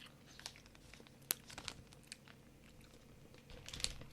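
Faint scattered clicks and crinkles from a gummy candy burger being handled and eaten, with a sharper click about a second in and a small cluster near the end.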